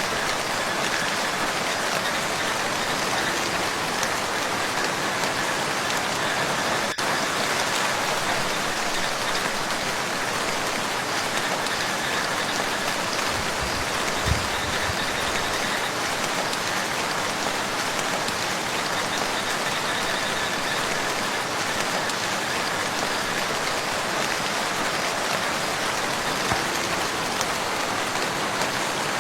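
Steady rain falling on a lake, an even patter that does not let up.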